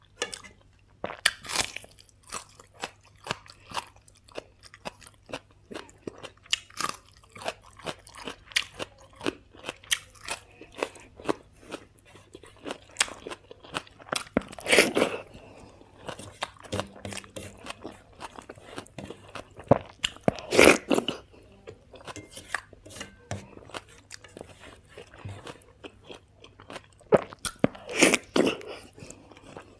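Close-up eating sounds: steady chewing with repeated crunching and mouth clicks, about two a second, with a few louder crunching bites, one about halfway through and one near the end.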